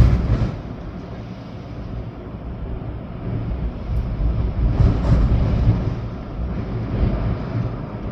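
Storm wind gusting and buffeting the microphone with a low rumble over steady rain, swelling strongest about four to six seconds in.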